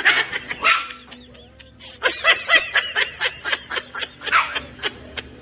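A dog barking in a quick run of short barks, about four a second, starting about two seconds in, after a brief burst of sound at the start.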